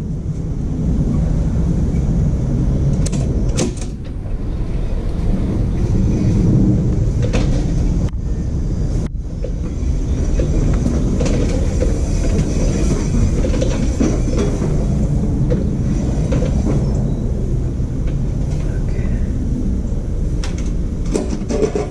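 Stump grinder's 13 HP Honda engine running steadily as the cutter wheel grinds a stump, with scattered sharp ticks over the engine noise.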